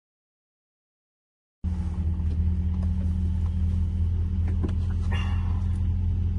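Silence for the first second and a half, then the GAZ-24 Volga's engine running steadily, a constant low drone heard from inside the car's cabin.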